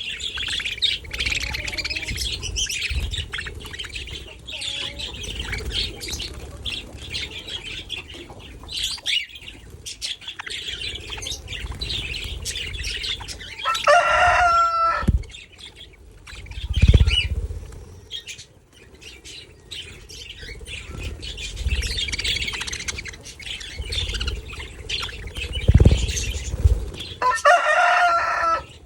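A flock of budgerigars chattering and chirping continuously, with wings flapping now and then. Two longer, louder calls with a clear pitch come about halfway through and again near the end.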